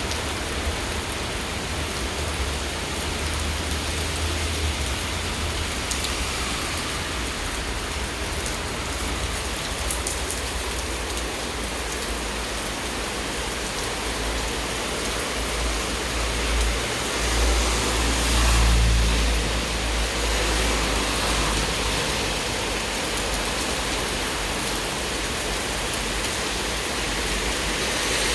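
Steady rain falling, an even hiss throughout. A low rumble swells and fades about two-thirds of the way through.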